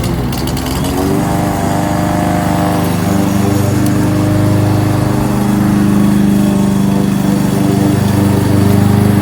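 Kohler XT-675 single-cylinder engine on a Yardworks push lawnmower running steadily. Its pitch wavers briefly in the first second, then settles and grows somewhat louder.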